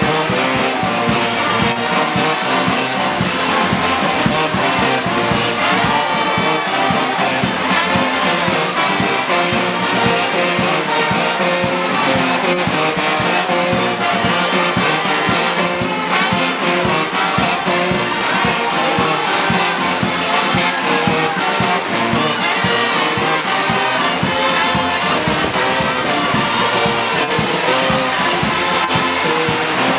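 Brass band music with trumpets and trombones, playing continuously at a steady level.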